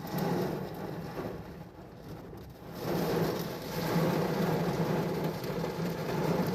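Heavy rain pouring down in a thunderstorm, easing a little about two seconds in and then louder again from about three seconds.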